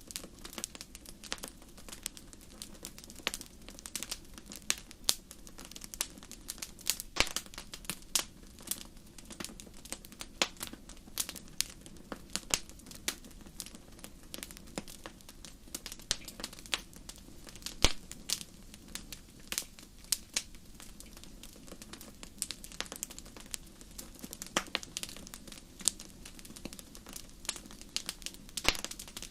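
Wood fire burning in a fireplace: irregular sharp crackles and pops over a low steady rumble of the flames, with one louder pop about 18 seconds in.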